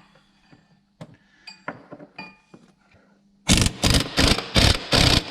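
Light metallic clinks of tools on metal. About three and a half seconds in, these give way to a quick run of about five loud, rasping bursts.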